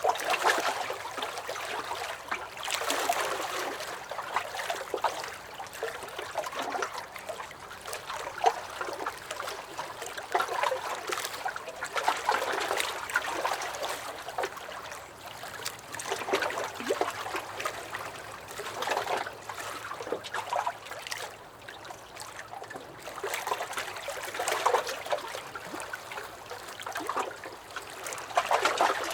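Small lake waves lapping and sloshing against a dock, in irregular splashy swells every couple of seconds.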